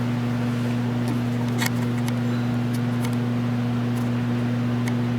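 A metalworking power tool running steadily with an even low hum and hiss, and a few light clicks scattered through it.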